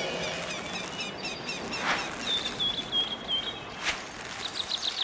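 Outdoor nature ambience: a steady hiss with birds chirping, including a quick run of short, high chirps a couple of seconds in.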